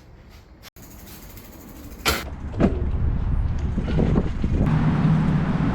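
Street traffic noise: a short, sharp hiss about two seconds in, then a loud, steady rumble of road noise and wind on the microphone.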